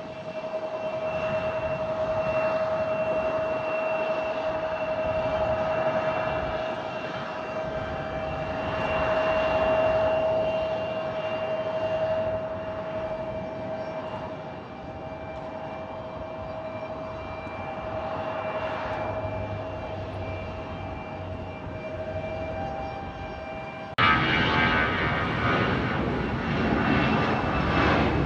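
Airliner engines running with a steady whine over a rushing rumble. About 24 seconds in, the sound cuts abruptly to a louder, rougher engine roar.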